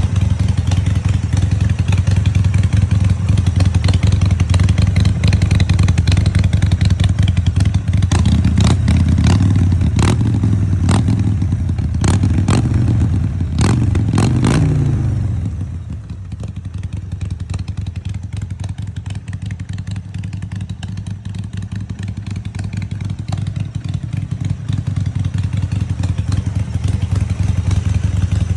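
Harley-Davidson Sportster V-twin engine running. In the middle it is revved up and down several times, with a series of sharp cracks. About halfway through the revs drop back to a lower, quieter idle, which slowly builds toward the end.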